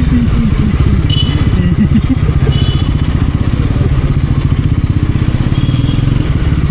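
Bajaj Pulsar NS400Z's single-cylinder engine running steadily as the bike is ridden, with an even, rapid low pulse from the exhaust.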